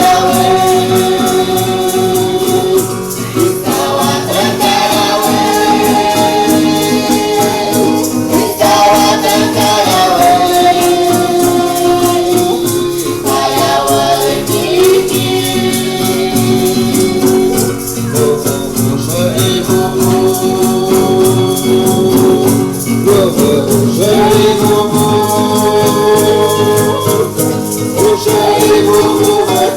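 Voices singing a chant in long held phrases, each about four to five seconds, accompanied by steadily shaken rattles.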